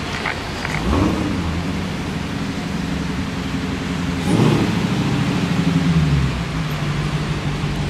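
Dodge Challenger's engine running at low revs in slow traffic. It revs up briefly about a second in and again for longer around four seconds in, over the hiss of surrounding traffic.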